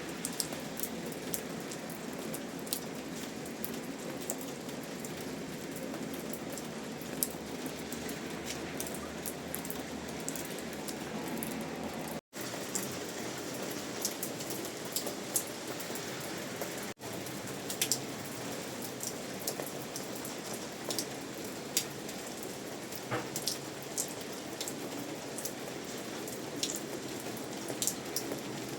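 Steady rain falling, with many distinct sharp drop taps over an even hiss. The sound cuts out for an instant twice, about 12 and 17 seconds in.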